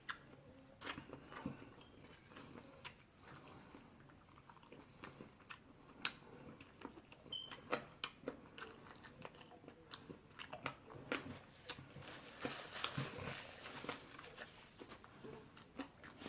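A person chewing and biting food close to the microphone, eating chicken: faint, scattered small crunches and mouth clicks.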